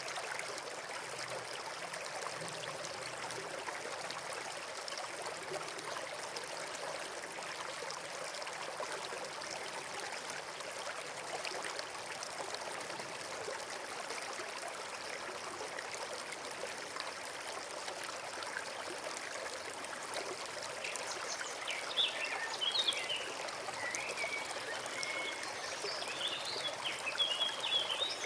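Forest stream flowing and trickling steadily. From about two-thirds of the way in, a small bird chirps in short, quick phrases over the water.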